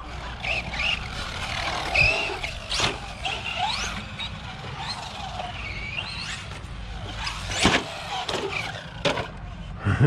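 Electric whine of a Remo Hobby short course RC truck's 3665 brushless motor, rising and falling in pitch as the throttle is worked, with several sharp hard knocks of the truck landing or hitting things.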